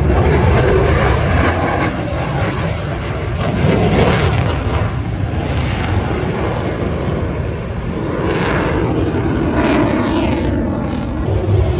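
Aircraft engine noise from a display flight overhead, loud and continuous, swelling and easing several times as the aircraft moves across the sky.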